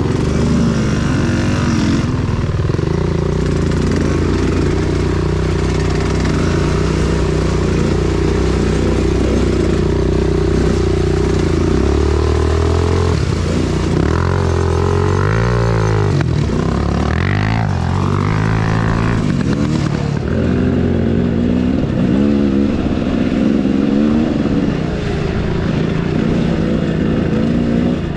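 Enduro motorcycle engine running under load while riding, fairly steady at first, then revving up and down repeatedly for several seconds about halfway through before settling again.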